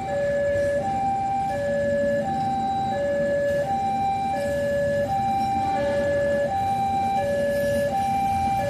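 Two-tone electronic warning siren alternating steadily between a high and a low note, each held about two-thirds of a second, over a low rumble.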